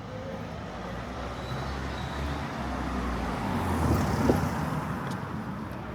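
A motor vehicle driving past on the street, its rumble and tyre noise building to a peak about four seconds in and then fading away.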